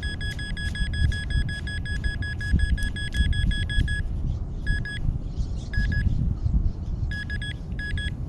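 Metal detector sounding a high electronic tone, held steadily for about four seconds, then breaking into a few short beeps as it passes over a target. Low rumble of wind on the microphone underneath.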